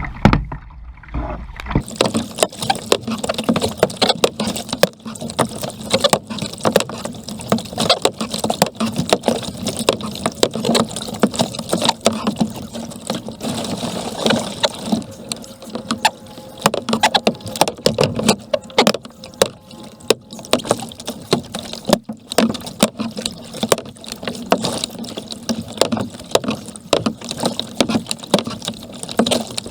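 Kayak paddling: paddle blades dipping and splashing in the water stroke after stroke, with a steady low hum underneath.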